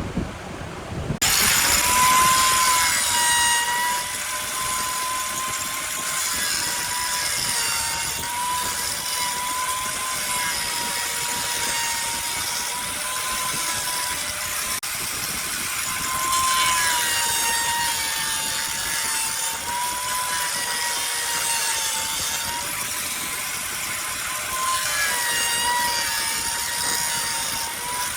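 Wood lathe running, with the hiss of a tool cutting the spinning wood. It starts abruptly about a second in, over a steady whine that wavers slightly in pitch.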